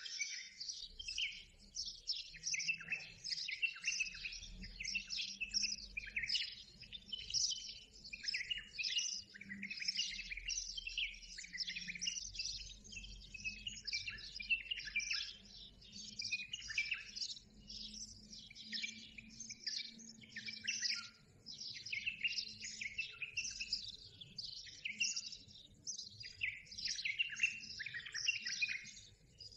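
Dense, continuous chirping and twittering of many small birds, a rapid run of short high notes without a break.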